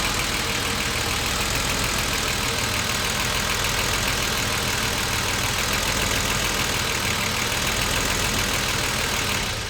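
BMW 635CSi (E24) straight-six engine idling steadily at normal operating temperature, where the idle seems ok. The car has a rough idle on cold and warm starts that is being traced through its idle control valve.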